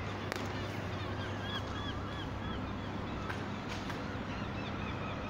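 A bird calling in a quick series of short chirps over a steady background hiss, with a few faint clicks.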